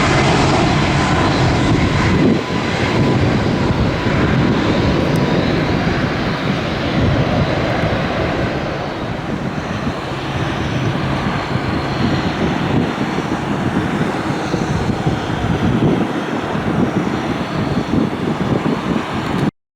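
Boeing 737 MAX 8-200 jet airliner's CFM LEAP-1B turbofan engines running loud, a steady rushing noise with a faint whine that fades over the first few seconds. The sound cuts off abruptly near the end.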